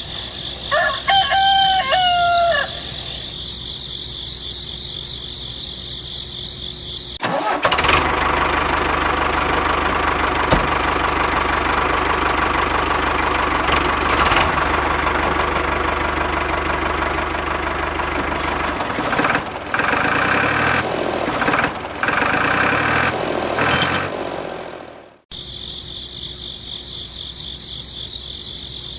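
A rooster crows once over a steady background hum. Then a motor starts suddenly and runs evenly for about eighteen seconds, turning rougher and uneven near the end before dying away quickly.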